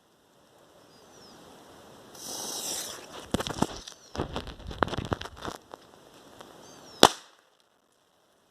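Small firecrackers (bombinhas) going off: a short hiss, then a quick irregular run of sharp cracks for about two seconds, and one louder single bang about seven seconds in.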